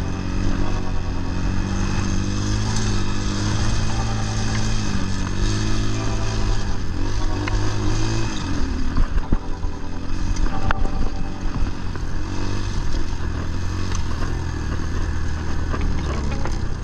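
Templar 250 dirt bike's engine running under load on a trail ride, its pitch rising and falling with the throttle. The pitch drops off about eight seconds in, then picks up again.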